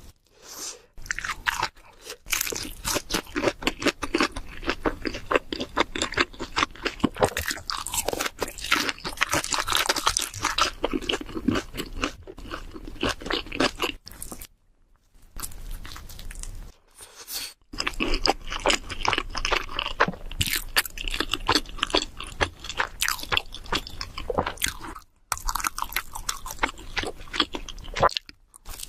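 Close-miked eating of cheese seafood pizza: rapid crunching bites and wet chewing, with a few short pauses.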